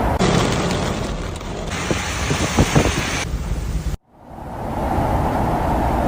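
Steady rush of heavy rain mixed with road traffic noise. The sound cuts out abruptly about four seconds in, then the steady rush fades back in.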